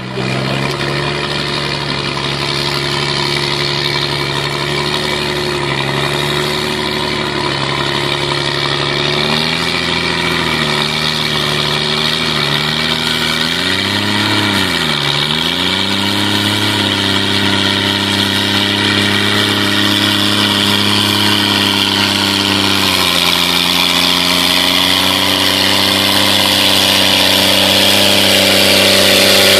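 John Deere 2020 tractor engine running at a steady speed. Its pitch wavers and dips sharply about halfway through before picking back up, then settles slightly lower about three-quarters of the way through, growing gradually louder.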